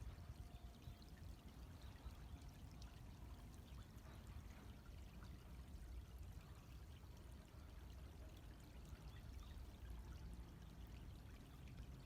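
Small stream flowing, a faint steady trickle of water.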